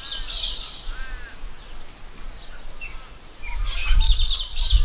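Birds chirping and calling, with a pair of short arched whistled notes about a second in. About three and a half seconds in, a low rumble starts under denser, louder chirping.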